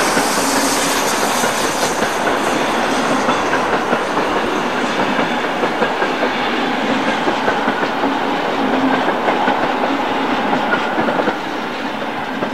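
Freight train wagons rolling past, their wheels clattering over rail joints in a steady clickety-clack. It gets a little quieter near the end as the last wagons go by.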